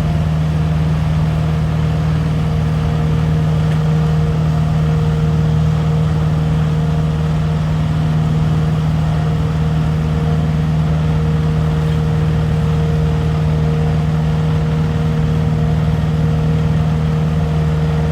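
Leaf collection truck's engine and machinery running at a steady speed: an even, unchanging drone with a low hum.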